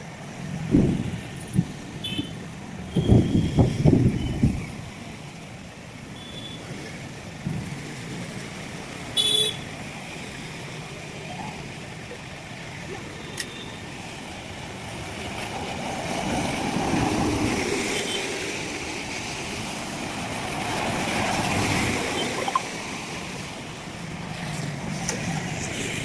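Steady heavy rain with motor traffic passing on a wet road, vehicles swelling past a few times, and a few short horn toots in the first ten seconds.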